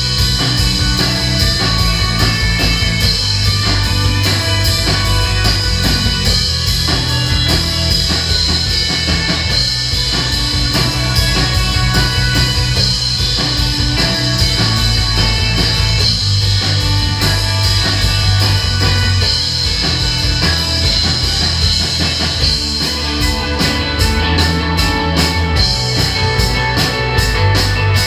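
A live rock band playing loudly, with drums and guitars forming a dense, continuous wall of sound. Near the end the drummer plays fast, evenly spaced hits.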